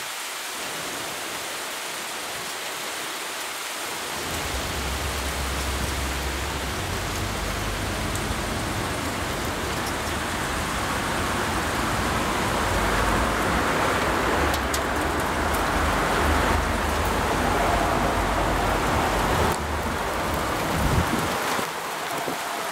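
Steady hiss of rain during a thunderstorm. About four seconds in, a long low rumble of rolling thunder sets in under it and dies away near the end.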